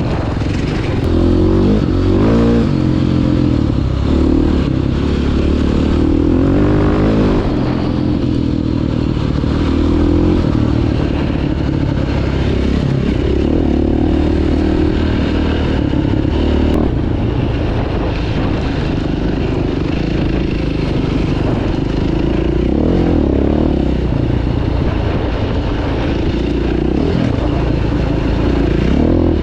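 Single-cylinder four-stroke engine of a 2009 KTM 530 EXC enduro bike heard from on board while trail riding, its revs climbing and dropping again and again as the throttle is worked and the gears change.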